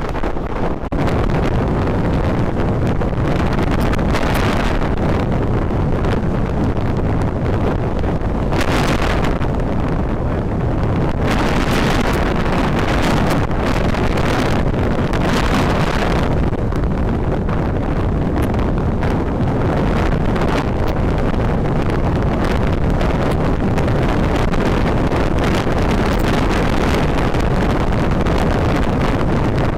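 Wind buffeting the microphone on a moving motorcycle, with engine and road noise underneath, steady throughout with gustier rushes now and then.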